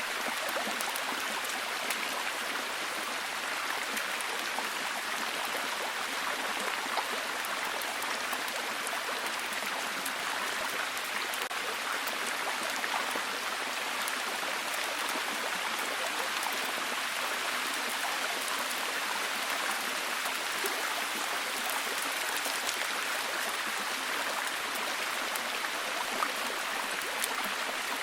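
Steady heavy rainfall, an even hiss with many small drop ticks and no let-up.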